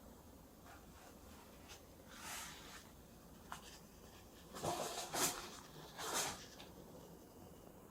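A few short scraping strokes from hand work on a cello being restored: one about two seconds in, a louder cluster about five seconds in, and one more just after six seconds.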